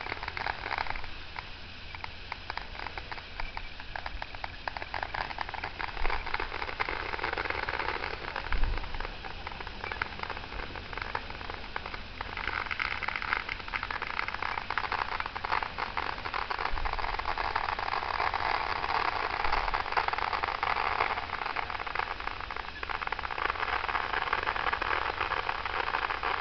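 Distant neighbourhood fireworks: a steady crackling, with a few dull booms, the loudest about 6 and 9 seconds in.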